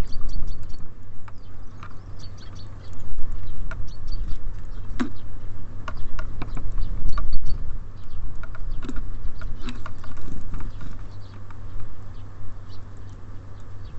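Small birds at a feeder: irregular sharp taps and clicks of beaks pecking and feet landing on the feeder, with short high chirps now and then.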